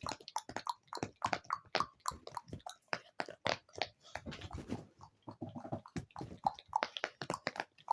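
Close-miked ASMR mouth sounds: rapid, irregular wet clicks and smacks, several a second.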